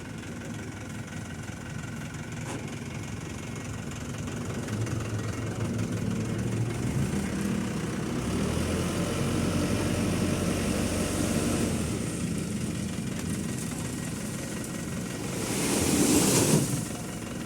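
A heavy vehicle engine running at a road-repair site, its low rumble growing louder through the middle and then easing off. Near the end comes a loud rushing noise lasting about a second and a half.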